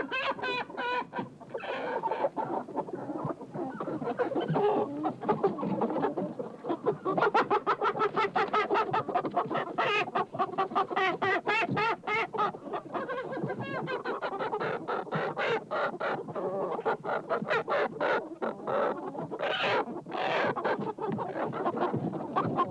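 Chickens clucking, many birds calling over one another in a continuous stream of short clucks.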